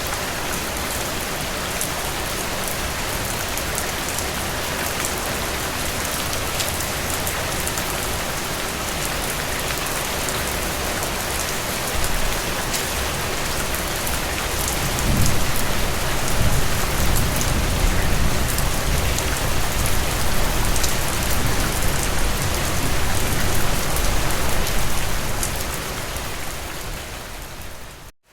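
Steady rain falling, with many fine drop ticks over a dense hiss. About halfway through a low rumble swells in under the rain for some ten seconds, and near the end the sound fades and drops out briefly.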